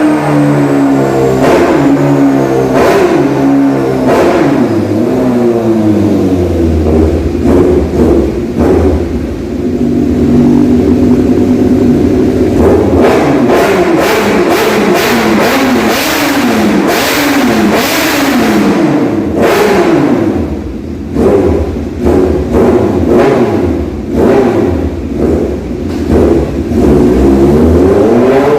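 Kawasaki ZX-6R inline-four engine breathing through an Austin Racing exhaust, revved hard again and again on a dyno, its pitch climbing and falling back each time. Sharp cracks come between the revs, most of them in the middle stretch.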